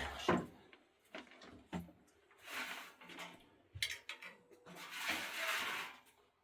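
A few sharp knocks and two longer scraping or rubbing sounds, the second about five seconds in: work handling noises.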